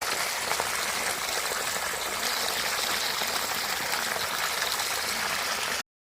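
Running water: a steady, even rushing that stops abruptly near the end.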